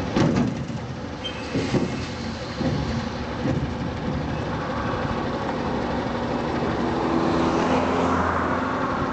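Old Western Star dump truck's diesel engine running while it dumps a load of pit run, with a few clanks and knocks in the first few seconds, then a steady run that swells briefly near the end.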